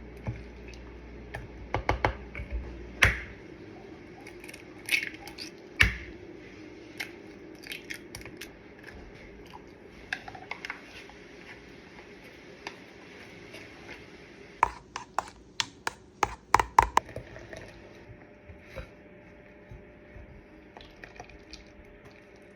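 Kitchen utensils knocking and clinking against bowls and pans during pancake preparation: scattered single knocks, then a quick run of about ten taps two-thirds of the way through.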